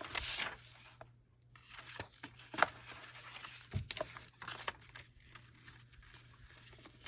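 Sheets of paper and card being handled on a table: scattered rustles with a few sharp taps and one dull knock about four seconds in.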